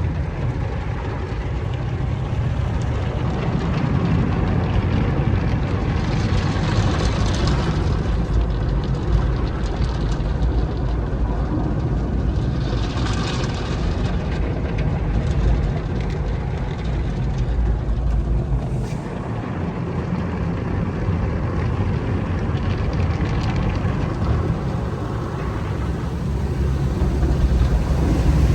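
Self-serve car wash equipment running: a steady low drone, with hissing bursts about six seconds in, about twelve seconds in, and again near the end.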